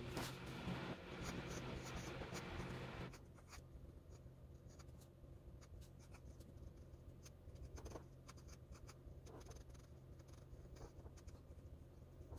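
Fountain pen nib scratching on paper in short, irregular strokes, over the steady low hum of a washing machine running. A louder hiss covers the first three seconds or so.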